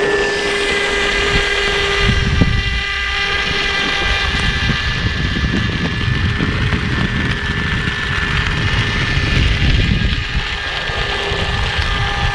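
Small electric motor running with a steady high whine over an uneven low rumble.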